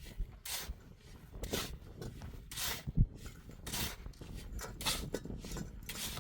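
Rhythmic rubbing or scraping strokes, about one a second, with a single low knock about halfway through.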